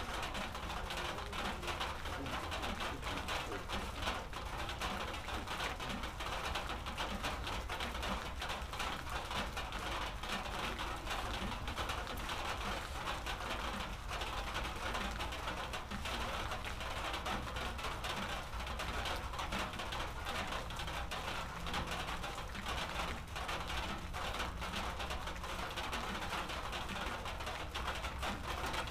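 Steady rain pattering: an even hiss full of small, quick drop ticks, unchanging throughout.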